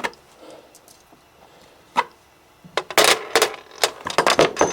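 Sharp knocks on a workbench as parts and tools are handled: a single click at the start, another about two seconds in, then a quick run of knocks and clatter from about three seconds on.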